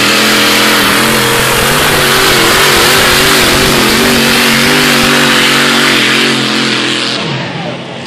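Supercharged 540-cubic-inch Chrysler Hemi-derivative V8 running on methanol at full throttle under load as the tractor drags the sled. The pitch wavers slightly, and the engine drops away about seven seconds in at the end of a full pull.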